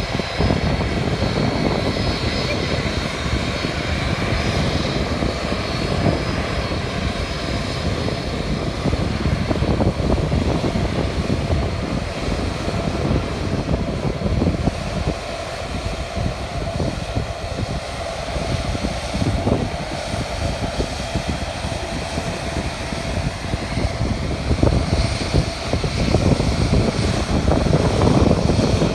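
Fixed-wing airplane engine running steadily, with steady high tones over the engine noise, growing louder over the last few seconds.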